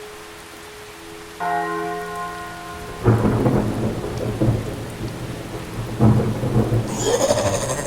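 Thunder with rain: a held, bell-like chord sounds first, then a heavy thunder rumble breaks in suddenly about three seconds in and surges again about six seconds in, over a steady hiss of rain.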